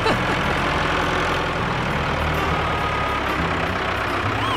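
A cartoon tractor engine running steadily. Near the end there is a short whistle-like tone that rises and then falls.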